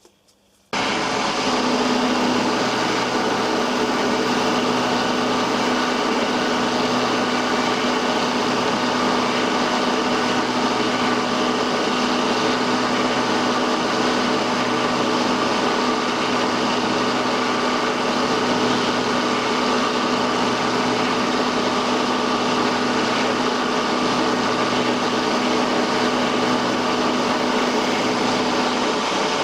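Milling machine running steadily and machining the top corner off an aluminium test piece held in a vise. It starts abruptly about a second in and keeps an even level, with a steady hum under a dense machine whirr.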